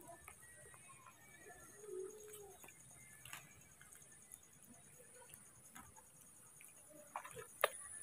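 Faint background with a single short, low bird call about two seconds in, scattered soft clicks, and a sharp click near the end, over a faint steady high whine.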